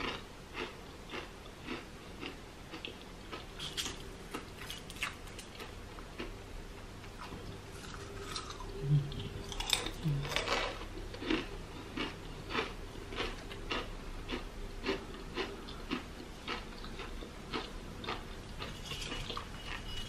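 Crunchy plantain chips being bitten and chewed with the mouth, a steady run of crisp crunches about two a second.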